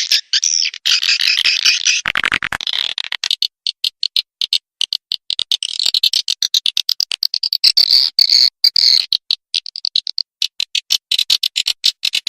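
Swiftlet call recording used to lure swiftlets into a nesting house: rapid high twittering chirps and trains of dry clicks, with a buzzier trill about two seconds in.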